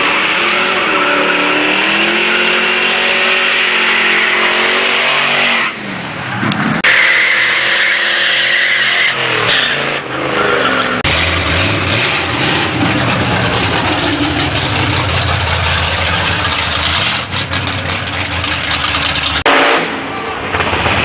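Loud car engines revving and accelerating as cars drive by, the engine pitch climbing and falling several times. The sound changes abruptly a few times.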